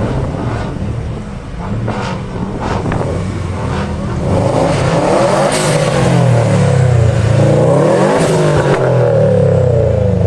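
Car engines revving, more than one engine rising and falling in pitch; the sound grows louder about four seconds in.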